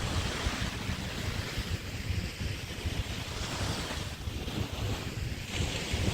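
Waves washing onto a Chesapeake Bay beach in rolling swells, with wind buffeting the microphone in a low, gusty rumble.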